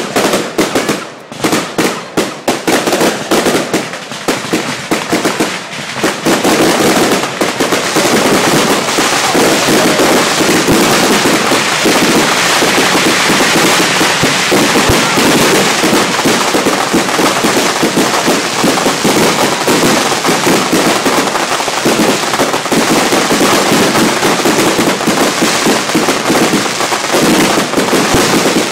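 Fireworks going off: a quick string of separate bangs for the first few seconds, then a dense, unbroken barrage of rapid crackling pops.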